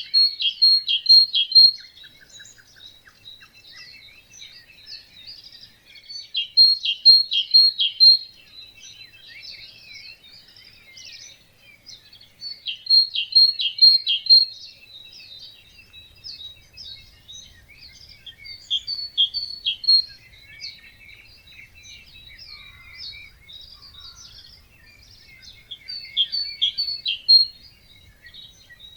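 Songbirds singing: one bird repeats a short, loud song of four or five quick notes about every six seconds, over steady fainter chirping from other birds.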